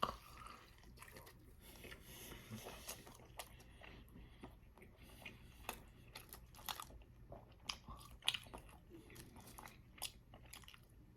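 Close-up mouth sounds of a person chewing a bite of a Wendy's Baconator bacon cheeseburger: soft, irregular wet smacks and clicks.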